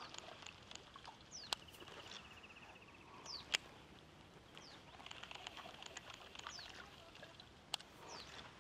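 Birds calling faintly: repeated short chirps that sweep downward in pitch, and a brief trill early on. A few sharp clicks are heard at intervals.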